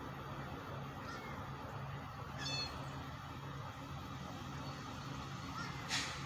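Engine running steadily on high, a low even hum, with a few brief high-pitched calls over it, the clearest about two and a half seconds in, and a short sharp sound near the end.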